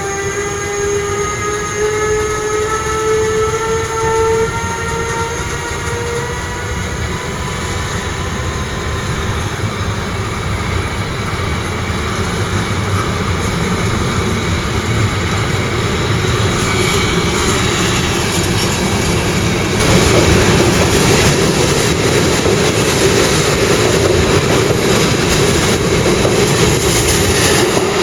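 Electric train accelerating: a rising whine from its traction motors over the first several seconds, then rail and running noise that builds up, loudest from about two-thirds of the way in.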